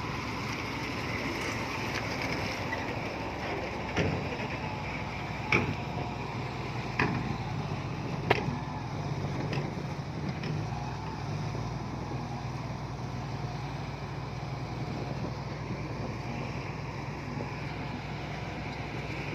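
Heavy earthmoving machine's diesel engine running steadily under load, with several sharp knocks in the first half.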